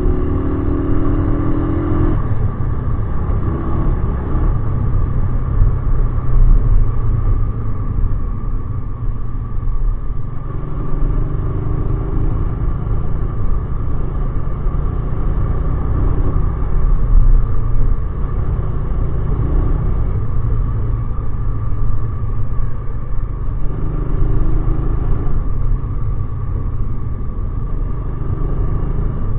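Motorcycle engine running under way with a heavy low road rumble. The engine note rises for the first two seconds as it accelerates, then shifts up and down several times.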